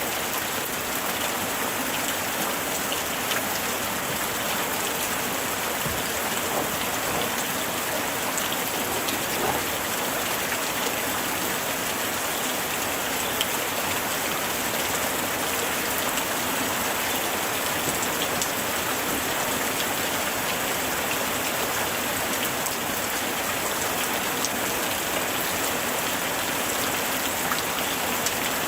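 Light rain falling steadily, a dense even patter with scattered individual drops ticking through it.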